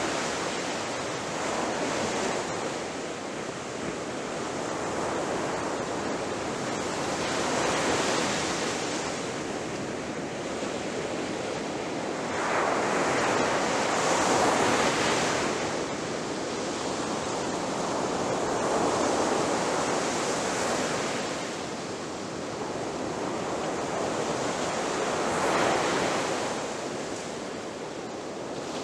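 Sea waves breaking on a shore in a continuous wash, swelling and falling every several seconds as each wave crashes, the biggest about halfway through.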